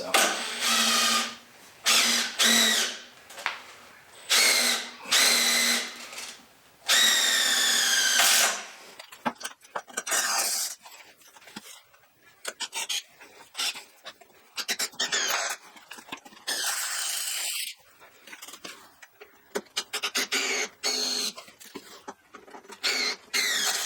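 Power drill run in repeated short bursts, each a motor whine that climbs in pitch as it spins up and then stops.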